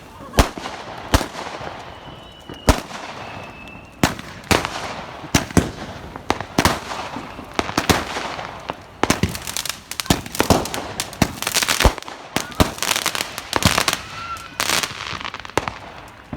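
Fireworks exploding in quick succession: sharp bangs at irregular intervals, with a dense run of crackling bursts over the second half.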